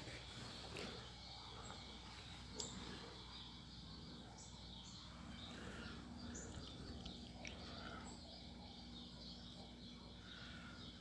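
Quiet indoor room tone with a faint steady low hum. A couple of soft clicks come about one and two and a half seconds in, and a few brief, faint high-pitched sounds are scattered through the middle.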